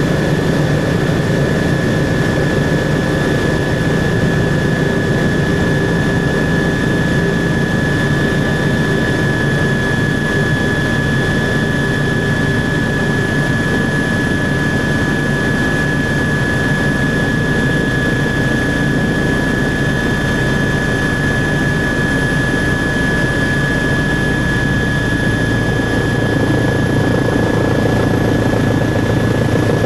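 Helicopter in flight, engine and rotor running steadily, with a steady high whine over a low rumble.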